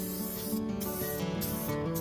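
Background music with stepping melodic notes, over the hiss of a paint spray gun laying clear coat. The hiss stops and starts several times.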